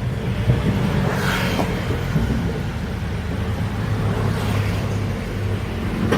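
Heavy excavator's diesel engine running steadily with a low drone, with a brief hiss a little over a second in.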